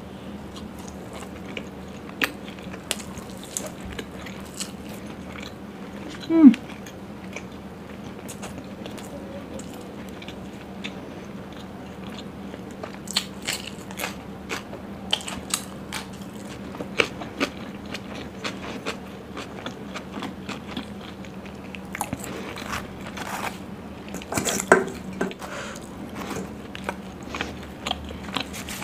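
Close-miked eating sounds: biting and chewing puri with paneer butter masala, with many short crisp crunches and wet chewing. There is a brief loud sound with a sliding pitch about six seconds in, and a faint steady hum underneath.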